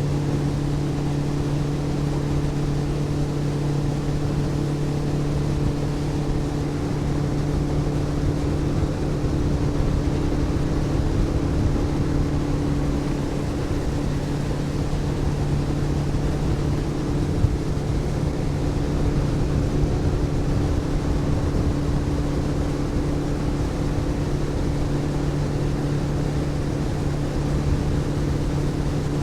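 Boat motor running at a steady speed under way, an even drone with rushing water and wind noise underneath.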